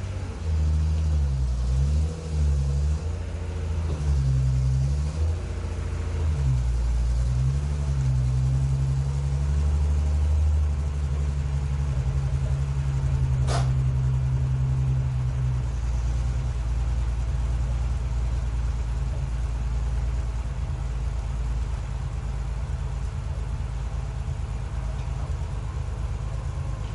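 Datsun 240Z (S30) L-series straight-six running, its note rising and falling with repeated throttle blips over the first several seconds, then settling to a steady run. A single sharp click about halfway through.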